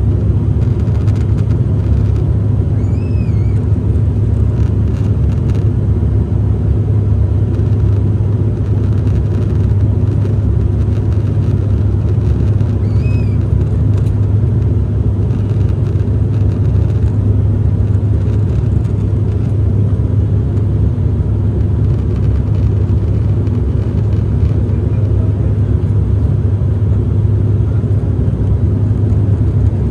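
Steady, loud rumble of jet engines and airflow heard inside an airliner cabin, strongest in the low end. Two brief, faint high chirps come through about 3 seconds and 13 seconds in.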